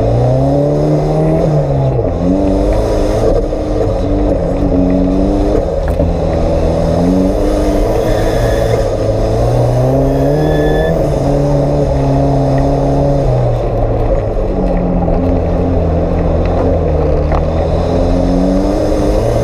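Off-road 4x4's engine running hard under load, its pitch rising and falling again and again as the throttle is worked. A short high squeal comes twice near the middle.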